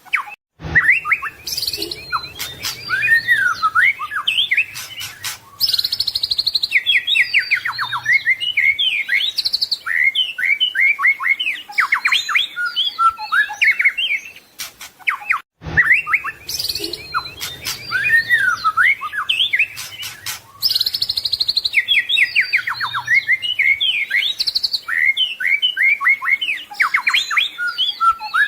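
White-rumped shama (murai batu) singing a loud, fast, varied song of whistles, trills and sharp chips, packed with mimicked phrases. The same stretch of song plays twice, starting over about halfway through after a brief gap.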